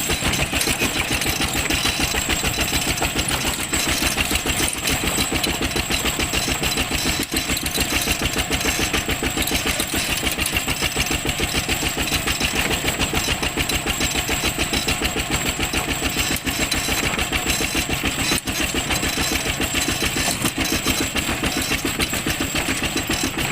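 ZT155 tractor's engine running steadily with an even, rapid beat of firing pulses.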